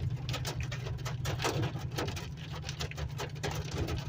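Hail pelting the body and windshield of a moving vehicle in four-wheel drive: dense, irregular sharp ticks over a steady low rumble of engine and tyres.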